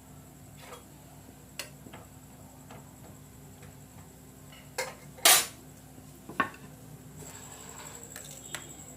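Metal cooking utensils clinking and knocking against a tawa: a few separate knocks, the loudest pair about five seconds in.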